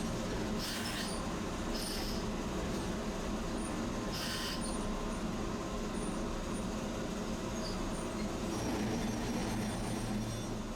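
Tosaden streetcar running: a steady low motor and rail hum with a few short hisses. The hum grows stronger near the end.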